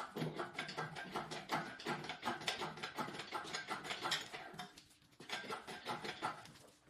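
Rapid, irregular metallic clicking and rattling from the hoisting gear as the engine is lifted out by hand, easing briefly about five seconds in.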